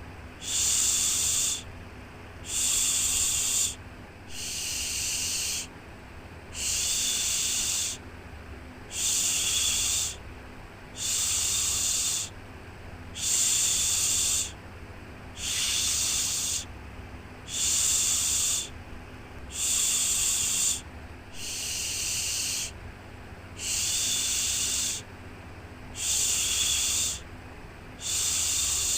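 Repeated 'shhh' shushing sound, one long hushed 'shhh' about every two seconds with short gaps between, over a faint steady low hum.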